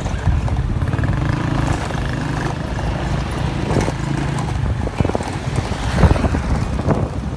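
Motorcycle taxi's engine running steadily as it rides along, with a knock about six seconds in.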